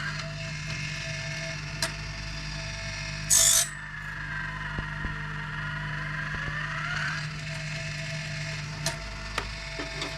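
Sawmill band-blade sharpener running: a steady electric motor hum, with one short, loud grinding rasp of the grinding wheel on a tooth about three and a half seconds in. A few sharp clicks come from the feed mechanism.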